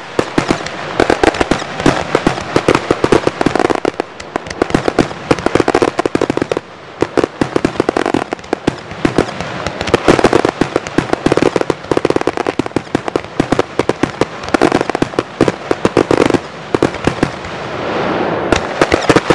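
1.3G display fireworks going off in a dense barrage: rapid, overlapping bangs and crackling, many reports a second. The barrage thins briefly about three-quarters of the way through, then picks up again.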